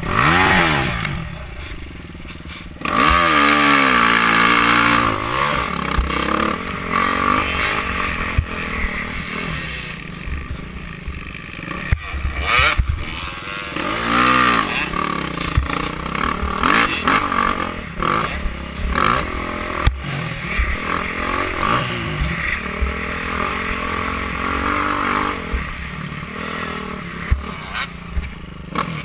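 Motocross bike engines racing on the track, revving up and falling back again and again as the riders work the throttle through the course.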